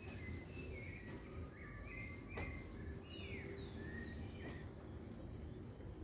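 Small birds chirping and twittering: quick short notes and little falling whistles, several in a row, over a steady low rumble of distant city noise.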